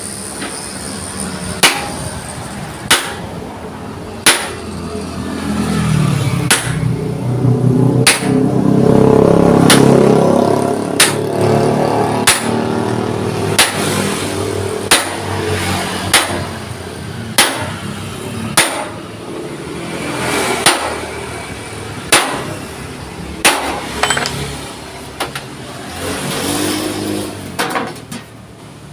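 Hammer striking thick steel plate about once every second and a half, shaping a crease into the panel. Underneath, an engine swells and fades, loudest about ten seconds in.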